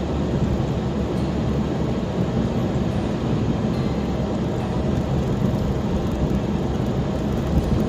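Steady road and engine noise inside a car's cabin while driving, a low, even rumble with no distinct events.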